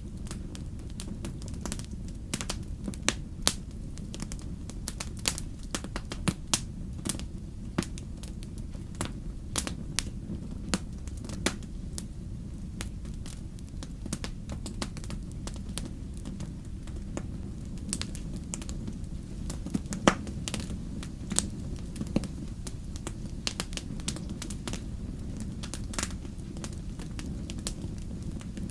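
Wood fire burning in a fireplace: a steady low rumble of flames with many sharp crackles and pops scattered irregularly throughout, the loudest pop about two-thirds of the way through.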